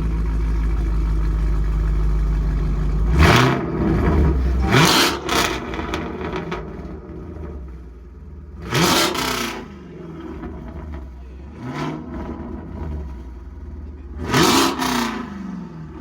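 A car engine idling with a steady low rumble, then revved hard in about five quick blips, each rising and falling in pitch, dropping back to idle between them.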